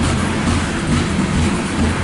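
Loaded coal hopper cars of a CSX freight train rolling past, their steel wheels running steadily on the rails.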